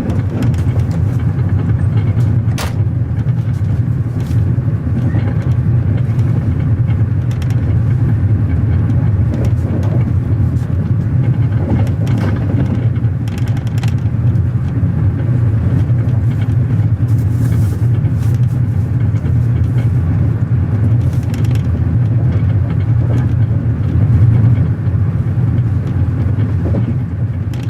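Passenger train running: a steady, loud low rumble with occasional short clicks and knocks.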